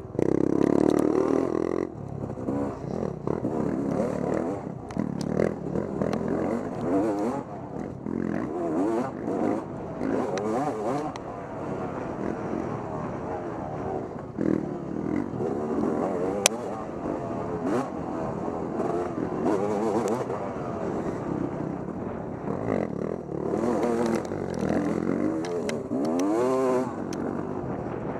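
Off-road motorcycle engine revving up and down over and over, its pitch climbing and dropping every second or two, with clatter and one sharp knock about sixteen seconds in.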